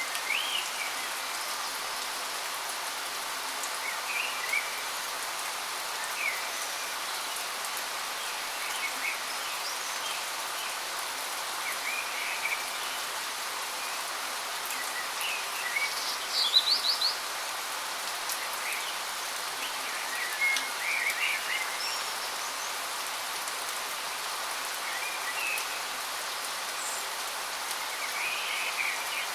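Steady rushing hiss of a waterfall, with birds chirping every few seconds over it; the loudest call, a quick run of high notes, comes a little past halfway.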